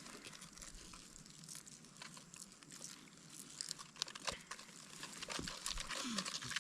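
Faint, scattered crinkling and crackling handling noises: irregular small clicks and rustles.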